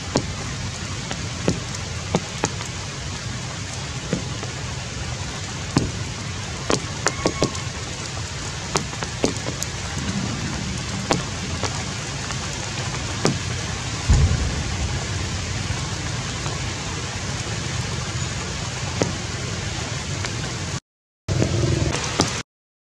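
Steady heavy rain with many scattered sharp drop hits. The sound cuts out briefly twice near the end.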